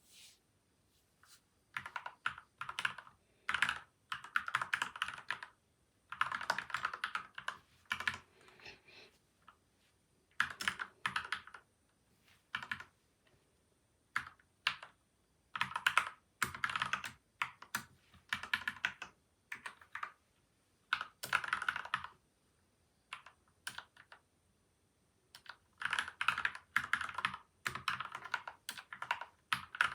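Typing on a PCL87 mechanical keyboard with lubed switches and stabilisers and tape-and-foam dampening mods. The keystrokes come in quick bursts of a second or two, with short pauses between.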